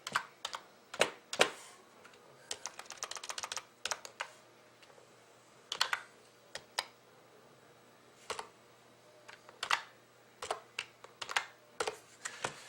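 Typing on a computer keyboard in short spurts: a quick run of keystrokes about two seconds in, then scattered single key presses.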